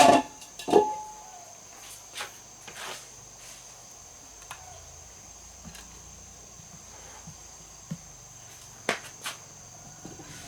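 Steady high-pitched insect chirring, with two loud knocks at the very start and a few sharp clicks later, two of them close together near the end.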